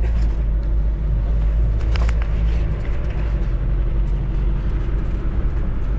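Off-road vehicle's engine running steadily with a low drone while driving, and a single sharp knock about two seconds in.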